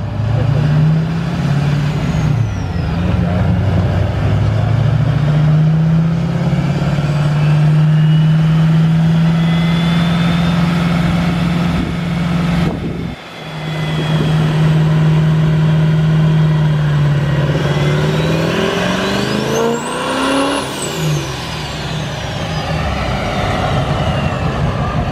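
Diesel pickup engine pulling hard under load on a chassis dyno. The engine note breaks off briefly about halfway through as the clutch goes in for a gear change, then picks up again. Near the end a high turbo whistle climbs steeply and falls away as the run winds down.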